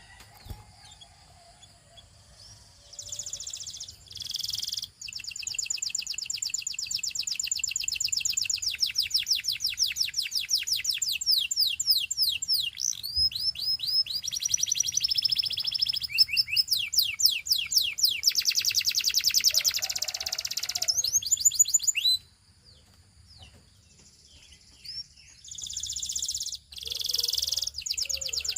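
Canary singing in long phrases of fast, high-pitched rolling trills and runs of repeated notes. The song starts a few seconds in, breaks off for about three seconds near the end, and then begins again.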